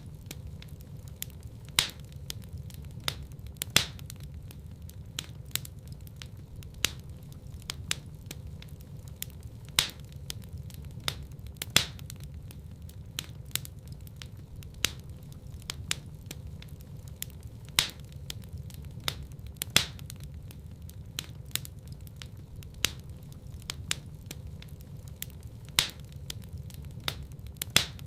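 Wood fire burning in a fireplace: a steady low rumble of the flames with irregular sharp crackles and pops, several every couple of seconds.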